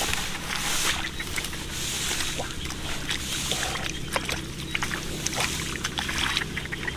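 Shallow water sloshing and splashing in repeated swishes, with scattered small clicks and a steady low hum underneath.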